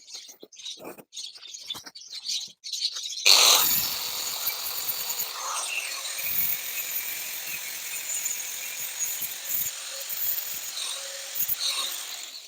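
Small birds chirping in short scattered calls, then a steady hiss that starts suddenly about three seconds in and cuts off near the end.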